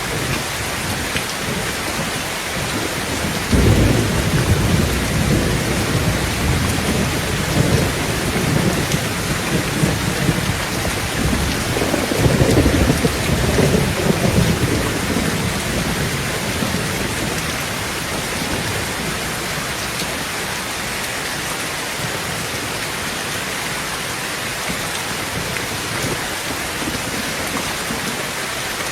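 Heavy rain falling steadily on a tin roof, with a thunder roll that breaks in suddenly about three seconds in, swells again around the middle and rumbles away well before the end.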